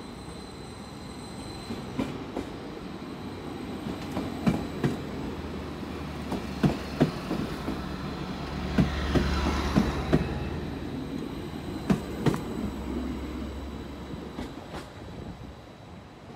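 Greater Anglia Stadler FLIRT multiple unit passing close along the platform: a low running rumble that builds to its loudest about halfway through and then fades. Many irregular sharp clicks come from its wheels over rail joints and points.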